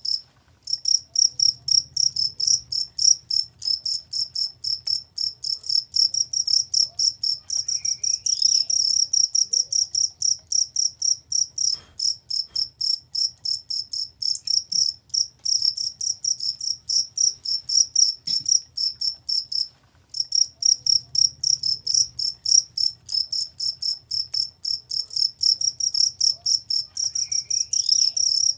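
Crickets chirping in a fast, steady train of short, high-pitched chirps, about three to four a second. The train breaks off briefly about half a second in and again about two-thirds of the way through.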